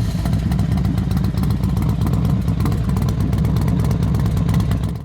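Motorcycle engine running steadily at idle just after being started, with a lumpy, even beat. It cuts off abruptly at the end.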